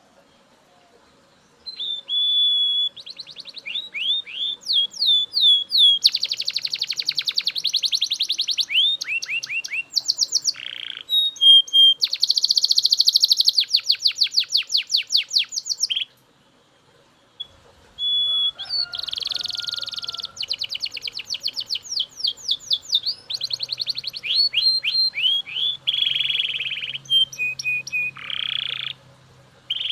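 Male Belgian canary singing: long phrases of rapidly repeated notes and fast trills mixed with short whistled notes, with a pause of about two seconds partway through.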